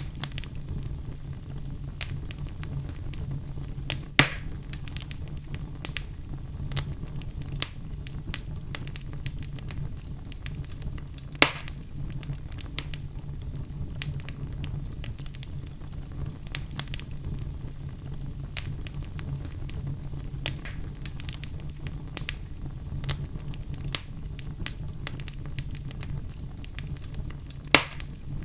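Wood fire of burning logs in a fireplace, crackling with frequent irregular pops over a steady low rumble; three louder snaps stand out, about four seconds in, near the middle and near the end.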